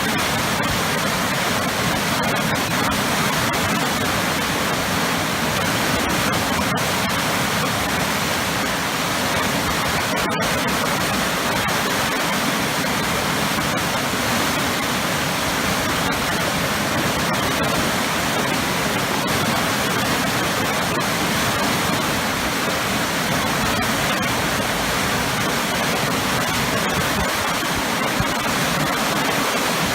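Waterfall pouring into powerful churning eddies, a dense, steady rush of water.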